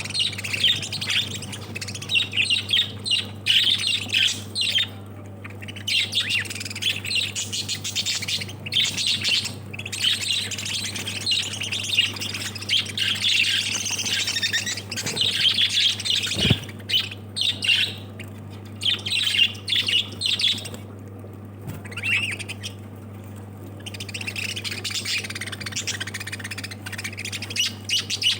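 Caged lovebirds chirping and squawking in a continuous, overlapping chatter, with a steady low hum beneath and one brief low thump about halfway through.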